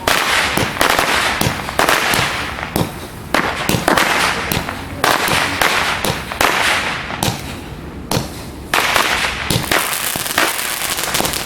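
A 96-shot fan cake firing shot after shot in rapid succession, several a second. Each mortar-like liftoff thump is followed by loud reports in the air.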